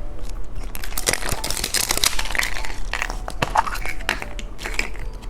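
Crinkly candy packaging being crumpled and torn open by hand as a cookie surprise egg is unwrapped, a run of irregular crackles and rustles.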